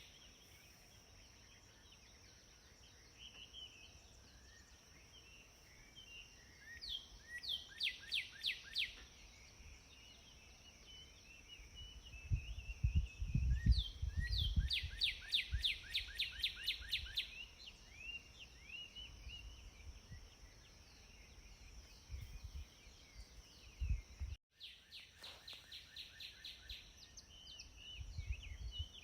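Songbirds singing outdoors: several bouts of rapid, repeated down-slurred whistled notes, with scattered softer chirps in between, over a steady high hiss. A low rumble swells briefly in the middle.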